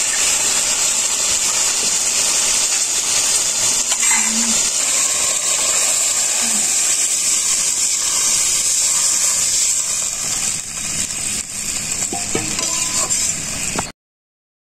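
Food frying in a pan, a loud, steady, high sizzle; the sound cuts off suddenly about a second before the end.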